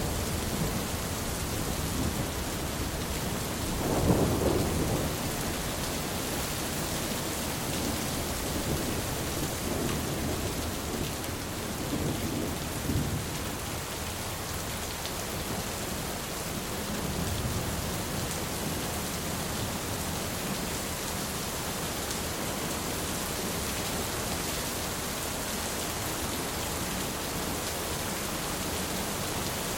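Steady rain falling through a thunderstorm. A low roll of thunder comes about four seconds in, and fainter rumbles follow in the middle.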